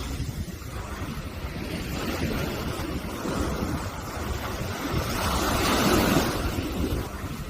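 Sea waves breaking on a beach, a steady wash with one wave swelling to a peak about six seconds in and then falling back, with wind buffeting the microphone.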